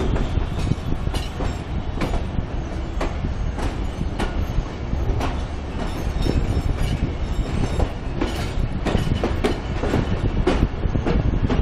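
Passenger train coach rolling over rail joints and yard points: a steady low rumble with irregular sharp wheel clacks, heard at an open coach door.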